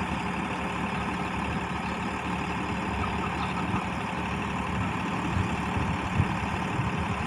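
Tractor's diesel engine running steadily at a low, even drone.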